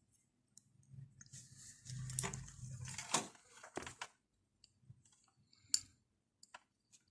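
Small clicks and rustling from handling a power-supply circuit board and a replacement MOSFET on a workbench. The handling is busiest between about one and four seconds in, followed by a few separate clicks.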